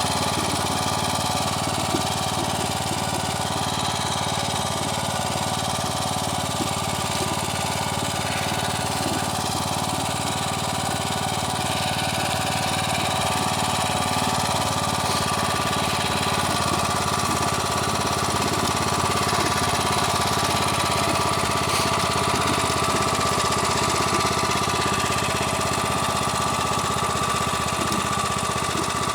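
Motor Sich walk-behind tractor engine running steadily throughout.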